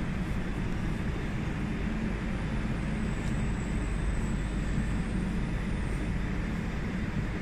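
Electric multiple unit train at a station platform, giving a steady low rumble and hum, with a faint high whine joining about three seconds in.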